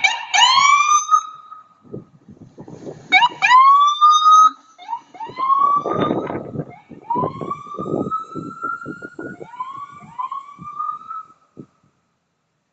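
Emergency vehicle siren giving a series of short rising whoops, each sweeping up in pitch and levelling off, with vehicle engine noise underneath.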